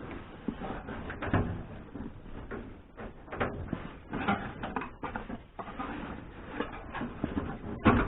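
Irregular knocks, creaks and rustling as a kei car's interior roof headliner and trim pieces are pried and pulled loose by hand.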